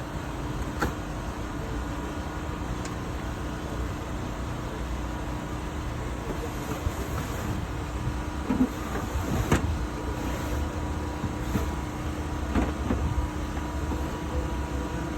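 Heavy machinery engine running steadily with a low rumble and a faint steady whine. A few sharp metallic knocks come through, the loudest about nine and a half seconds in.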